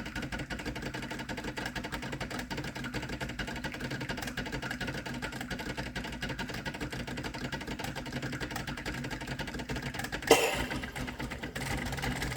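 Espresso machine's pump running steadily during a shot, a constant buzzing hum. About ten seconds in, a sudden brief louder sound cuts in over it.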